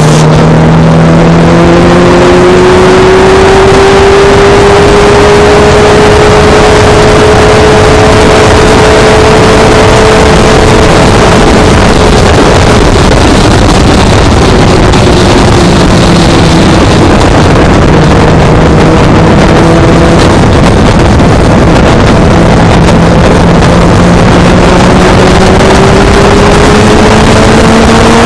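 Honda CBR600F's inline-four engine running at road speed, its pitch climbing, holding, dropping back about halfway through and rising again near the end, under heavy wind rush on the microphone.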